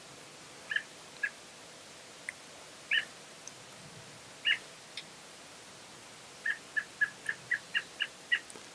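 A songbird's short, sharp calls: a few scattered notes, then a quick run of about eight calls, three or four a second, near the end.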